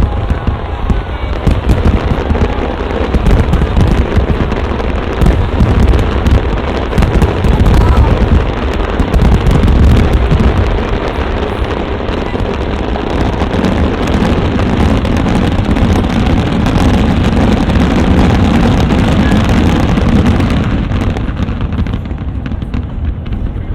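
Fireworks display: a dense run of shell bursts, deep booms mixed with crackling. The booms are heaviest in the first half, giving way to a thicker, steadier crackle.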